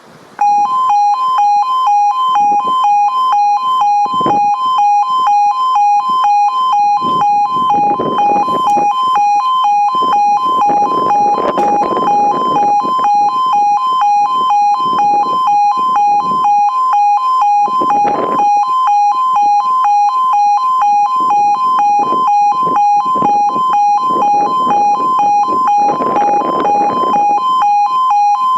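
E2S level crossing audible warning alarm sounding a rapid two-tone warble, starting abruptly about half a second in: the crossing's warning sequence has begun ahead of a train.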